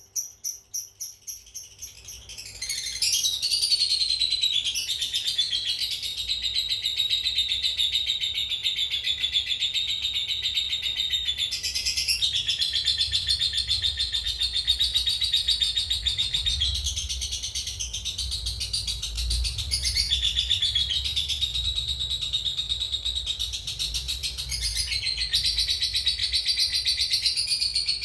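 Lovebird's 'ngekek': a long, unbroken, very fast chattering trill that starts about two and a half seconds in and runs on, shifting pitch a few times. A quieter pulsed stretch fades out over the first two seconds.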